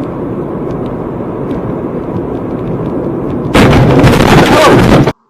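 Steady muffled driving noise picked up by a dash cam's microphone. About three and a half seconds in, a sudden very loud, distorted noise lasts about a second and a half and cuts off abruptly.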